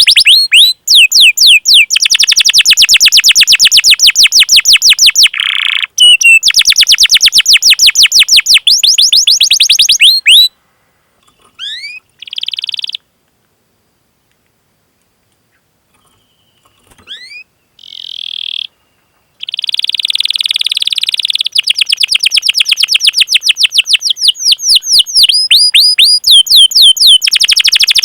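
Domestic canary singing: long runs of fast, repeated sweeping 'cuit cuit' chirps and rolled trills, breaking off into a few seconds of quiet with only scattered short notes in the middle before the rapid chirping starts again.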